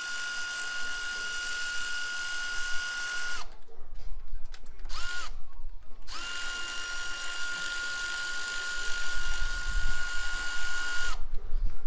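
Cordless power tool motor whining at a steady pitch in three runs: about four seconds, a quick blip, then about five seconds. It spins up at the start of each run and winds down at the end.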